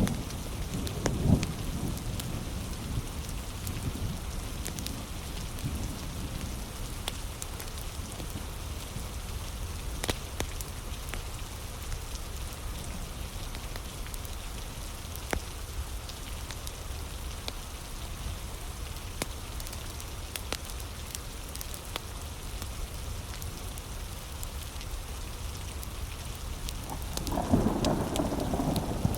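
Steady heavy rain over a deep low rumble, with sharp crackles and pops from a wood fire scattered through. A louder rolling rumble swells near the end.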